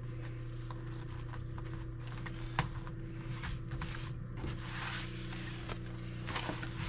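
Singer 151W3 walking foot sewing machine at rest with its electric motor humming steadily, with a few scattered light clicks and a short soft rustle about two-thirds through.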